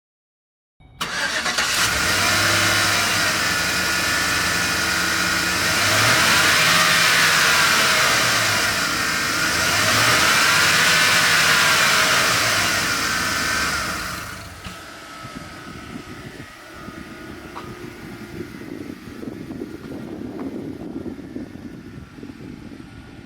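Chevrolet Express 3500 van's engine starting up suddenly and running loudly, revved up and back down twice, then settling to a much quieter idle about fourteen seconds in.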